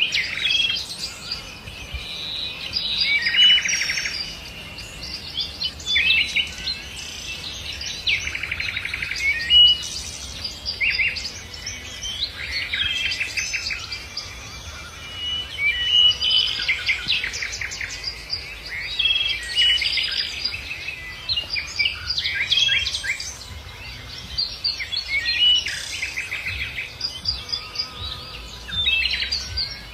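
Songbirds singing, a string of short chirping and trilling phrases every second or two, over a faint low rumble.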